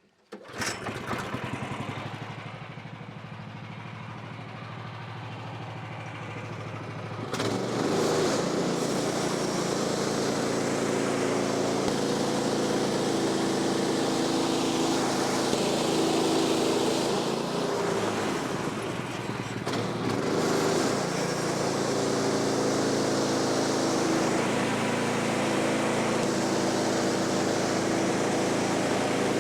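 Gas engine of a Woodland Mills bandsaw sawmill starting suddenly and running steadily. About seven seconds in it gets louder as the band blade cuts through a post oak log, and it keeps running under load with brief dips.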